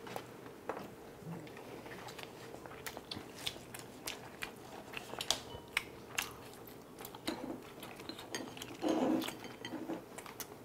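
Close-miked chewing of tteokbokki rice cakes and corn dog, a steady run of small wet clicks and smacks from mouths full of food. About nine seconds in there is a short, louder muffled sound.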